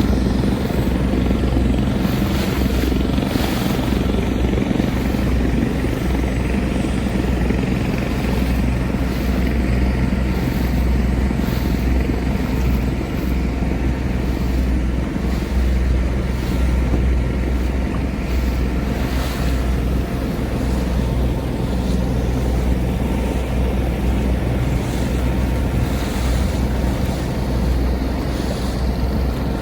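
A small boat's engine running steadily underway: a low, even drone with the noise of water and wind around it.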